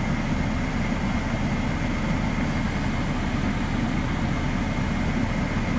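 Steady low rumble of a vehicle engine idling, with a faint steady whine above it.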